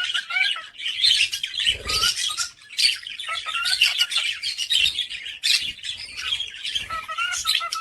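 Pet parrot chattering nonstop in a rapid stream of chirps, squeaks and short squawks, with a soft low thump about two seconds in.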